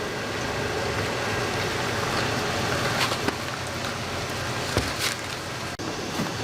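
Chicken, onions and peppers sizzling steadily in a large frying pan, with a few light knocks midway.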